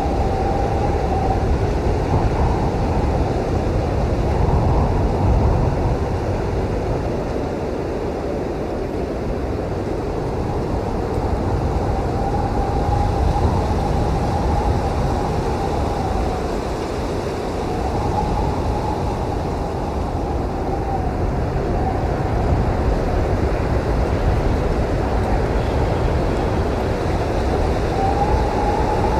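Blizzard wind blowing steadily with a deep rumble, swelling and easing slowly. A faint whistling howl comes and goes a few times.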